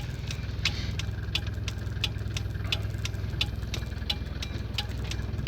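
Mercedes-Benz Vito 638's 2.3-litre OM601 diesel idling, heard from inside the cab, with an even light ticking about three times a second.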